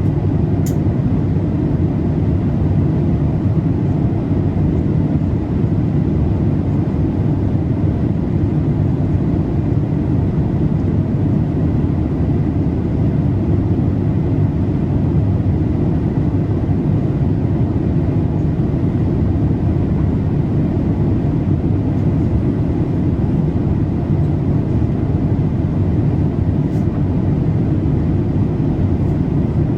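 Steady in-flight cabin noise of a Boeing 787-8, heard from a window seat: an even, deep hum of airflow and engines that doesn't change.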